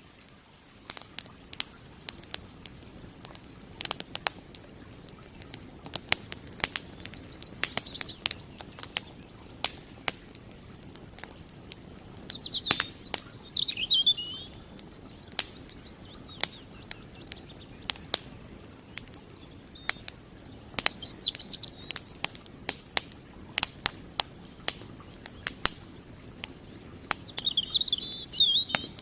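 Wood fire crackling, with frequent sharp pops, over a faint steady rush of flowing water. A small songbird twitters in short phrases about halfway through and again near the end.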